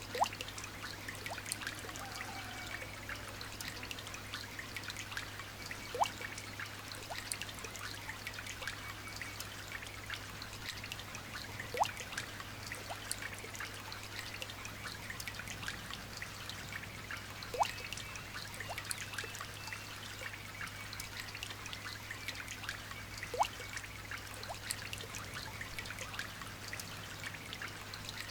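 Light rain falling steadily, heard as a soft trickling hiss with many small scattered drop ticks. About every six seconds a louder single drop plinks into water with a quick rising pitch.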